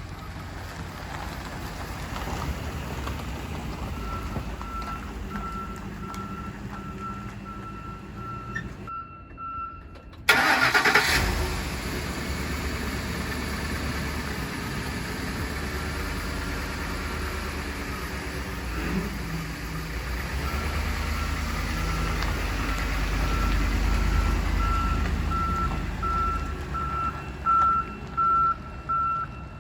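A 2009 Ford F-150 XL pickup's V8 being started. A warning chime beeps steadily, then about ten seconds in the engine cranks and catches with a sudden loud burst, and it settles into a low steady running note that swells for a few seconds about twenty seconds in. Near the end a loud electronic beep sounds about once a second.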